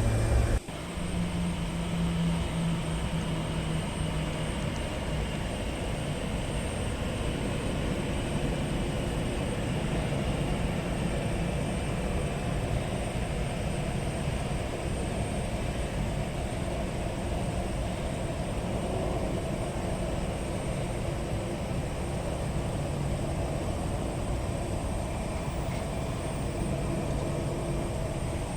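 Jet airliner engines running on the airport ground, a steady rumble with a faint thin whine.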